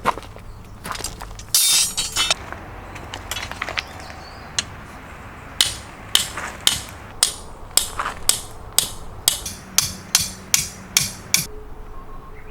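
A series of about fifteen sharp, evenly spaced striking blows, roughly two a second, after a few scattered knocks and a brief clatter.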